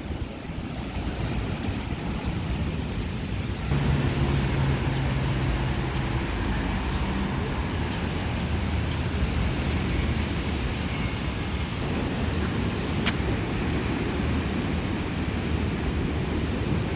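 Outdoor street ambience of steady wind noise on the microphone with a motor vehicle engine running. It gets louder about four seconds in as an engine hum rises.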